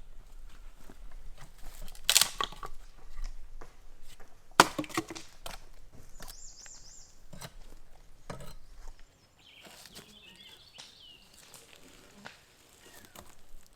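Wood being handled and broken: a string of sharp cracks and knocks, the loudest about two and four and a half seconds in, busy for the first two thirds and then quieter. High chirping calls come through in places.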